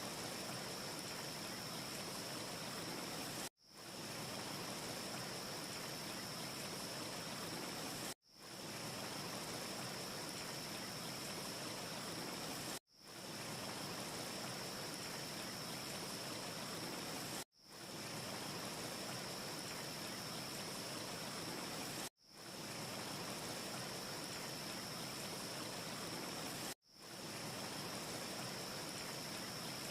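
Looped ambience track: a steady rushing noise with a thin high steady tone, dropping out briefly and swelling back in about every four and a half seconds, six times here.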